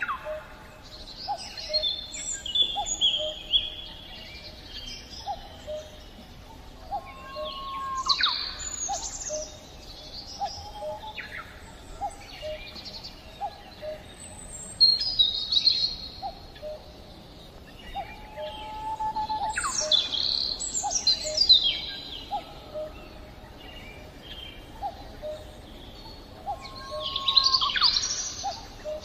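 Several birds singing and calling: bright chirps and sharply falling high calls, with a low short note repeating about once a second beneath them.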